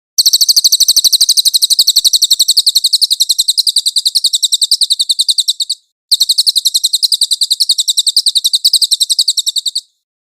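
Songbird singing a long, rapid, very high-pitched rolling trill of evenly repeated notes, broken once by a brief pause about six seconds in, then trilling again. This is the full rolling song ('ngeroll') used as a masteran recording for training songbirds.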